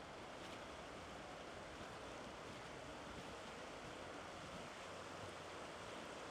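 Steady rushing of river water flowing over a shallow bed, an even wash of noise with no breaks.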